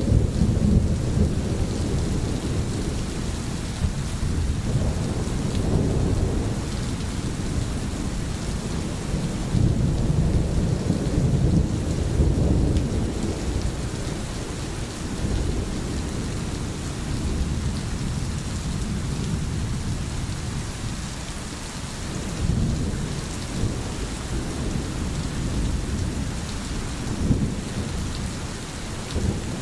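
Steady heavy rain, with low rumbles that swell and fade every few seconds beneath the hiss.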